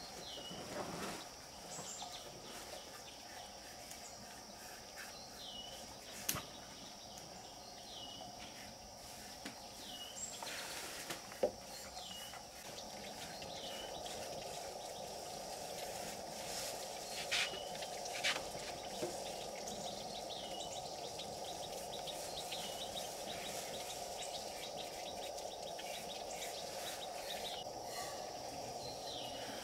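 Rural outdoor ambience: a bird repeats a short falling call every two to three seconds over a steady insect drone, with a few sharp knocks.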